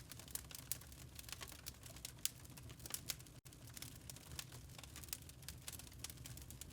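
Wood fire crackling in a fireplace: irregular sharp pops and snaps over a low, steady rumble of flame. There is a brief dropout about halfway through.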